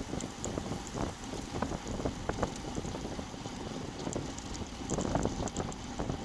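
Wind buffeting the bike-mounted camera's microphone while riding, an uneven rumble that swells in gusts, with faint light ticks over it.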